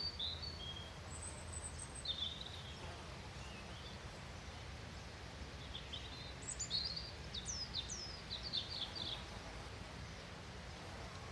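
Wild songbirds chirping over a steady low outdoor rumble, with a short phrase near the start and a quick run of high chirps and sliding notes about six to nine seconds in.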